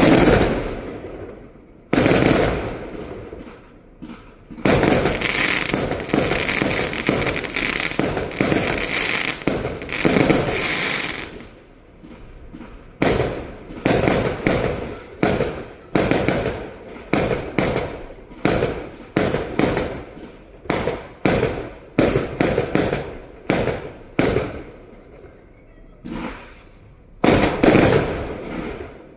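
Fireworks going off: a few loud bangs, then about six seconds of dense continuous crackling and banging, then a quick run of separate bangs about one or two a second, with more bangs near the end.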